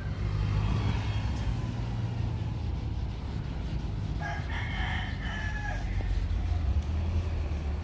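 A rooster crowing once, a drawn-out call of about a second and a half near the middle, over a steady low drone.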